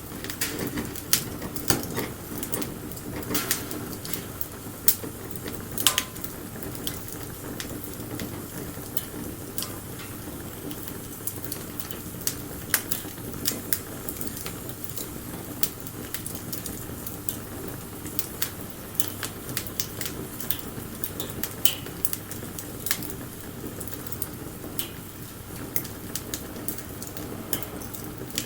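Wood bonfire burning, with irregular sharp crackles and pops over a steady low rush of flame; a few pops stand out louder.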